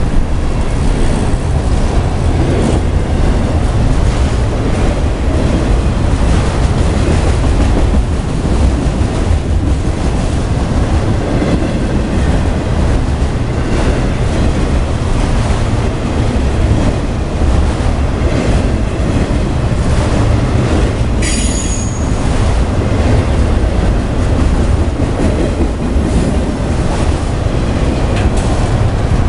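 Freight train cars, covered hoppers and autoracks, rolling past at speed: a steady, loud rumble and clatter of steel wheels on the rails. About two-thirds of the way through there is one brief high wheel squeal.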